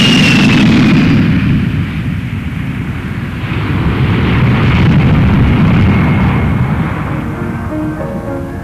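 Jet airliner engines running at takeoff power: a loud, steady roar with a high whine that falls in pitch in the first second. Piano music comes in near the end.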